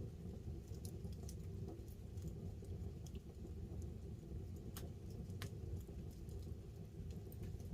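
Wood campfire crackling, with scattered sharp pops of burning wood, the two loudest a little after the middle, over a steady low rumble. Light rain patters on the tarp overhead.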